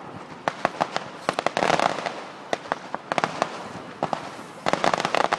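Fireworks going off in rapid volleys of sharp bangs and crackles: a dense cluster a second and a half in, more pops around three seconds, and another quick volley near the end.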